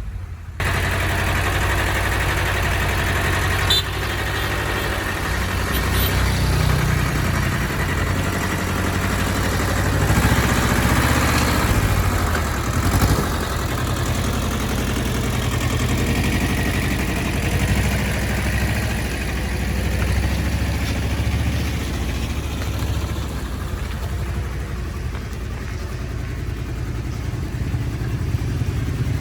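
An engine running at idle, steady, with its pitch shifting a little around the middle.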